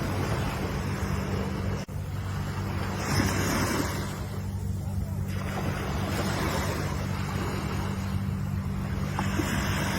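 Ocean waves washing in, with surges about three seconds in and again near the end, over a steady low rumble. The sound drops out for an instant just before two seconds in.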